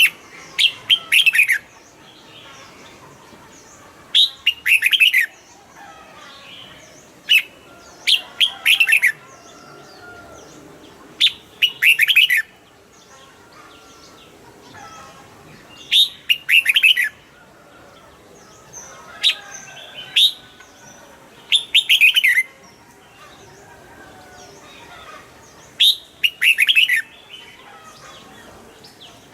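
Red-whiskered bulbul singing: short, bright phrases of quick notes, each about a second long, repeated every few seconds.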